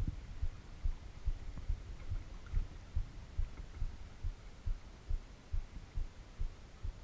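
Water slapping against a kayak's hull in low, dull thumps, about two a second, over a faint steady hiss.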